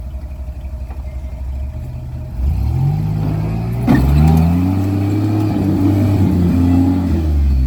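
Off-road vehicle's engine idling with an even pulse, then revved up about two and a half seconds in and held high under load before easing off near the end. There is a single sharp knock about four seconds in.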